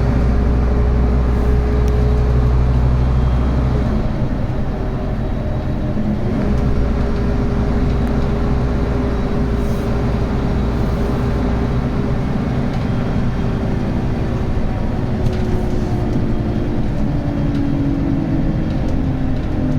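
Scania N280UB city bus's diesel engine and ZF Ecomat automatic transmission running on the move. Its steady tone drops about four seconds in, comes back higher a couple of seconds later, then slowly falls over the last several seconds.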